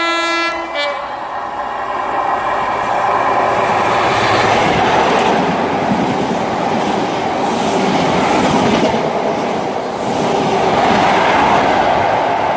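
A train horn sounding, cutting off about a second in, then the steady, loud noise of a train running past on the track, building over the next few seconds.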